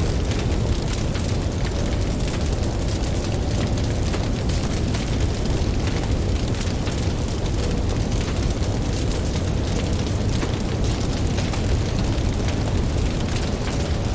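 Campfire crackling with frequent small pops over a steady low rumble of ocean waves.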